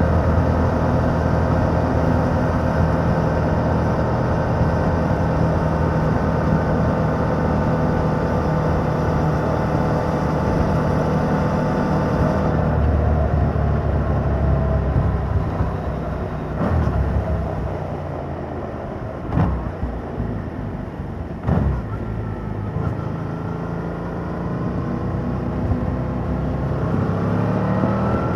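Yamaha MT-07's 689 cc parallel-twin engine running through its stock exhaust while riding: steady at first with revs slowly falling, then easing off to a lower drone broken by a few thumps, and revving up again near the end.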